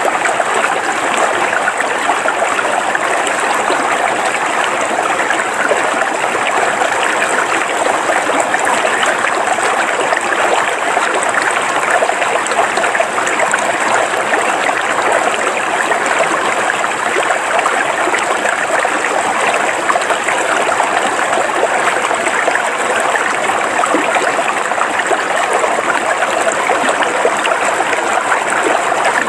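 River water flowing steadily over rocks, an even, unbroken rush.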